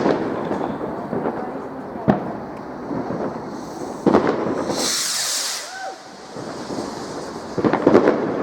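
Fireworks going off: single sharp bangs every couple of seconds, a bright hissing burst about halfway through, and a quick run of bangs near the end.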